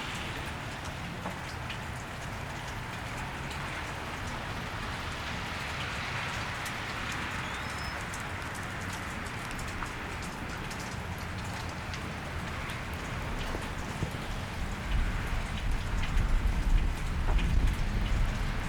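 Steady rain falling on a wet street, with many small drops ticking. A low rumble swells in the last few seconds.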